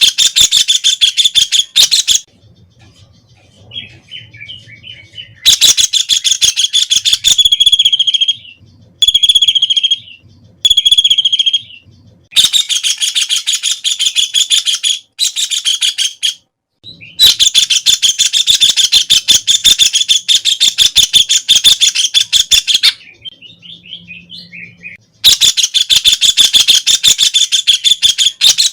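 White-throated kingfisher (Halcyon smyrnensis) calling loudly with a fast, shrill rattling trill, repeated in bouts of a few seconds. Short gaps between the bouts hold a few brief single notes and fainter falling notes.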